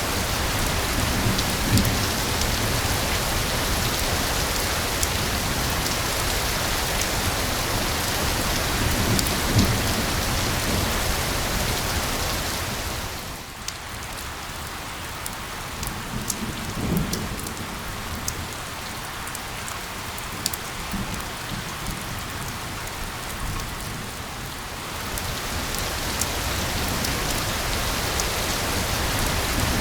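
Steady heavy rain blended with a white-noise hiss, with scattered drop ticks. About thirteen seconds in it softens for roughly ten seconds, then swells back to full. A few brief low rumbles come through.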